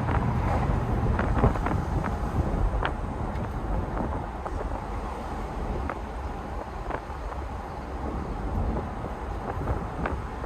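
1988 Mercedes-Benz 560SL's V8 running on the move, under a steady low rumble of road and wind noise, with scattered light ticks and knocks.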